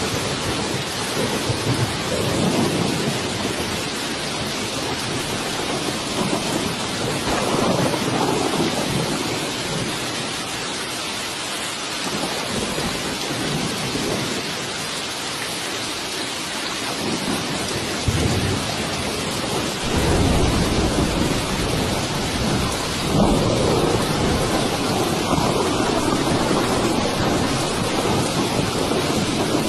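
Steady heavy rain hiss with low rolling thunder swelling in and out, strongest in the second half.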